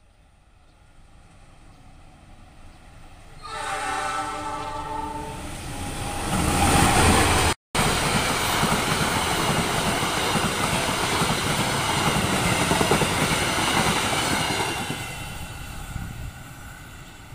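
A diesel-hauled Indonesian passenger train sounds its horn, a steady chord, about three seconds in. It then passes close by with loud wheel-on-rail rumble, which fades as it draws away near the end.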